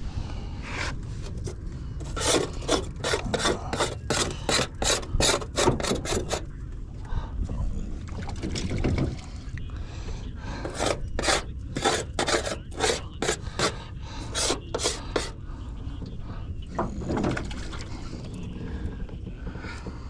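Repeated rasping, scraping strokes, about three a second, in two runs of several seconds each.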